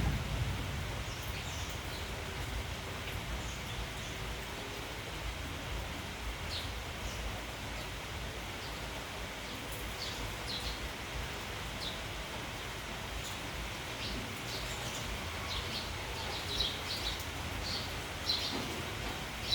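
Steady rain hissing, with a flock of sparrows chirping in short high calls that come thicker in the second half.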